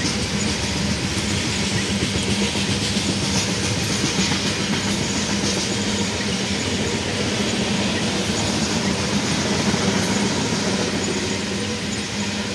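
Freight train of loaded tank cars rolling past at steady speed: the continuous noise of steel wheels running on the rails, even in level throughout.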